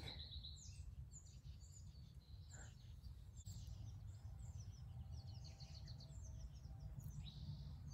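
Faint birds chirping and tweeting in short scattered calls over a steady low background rumble.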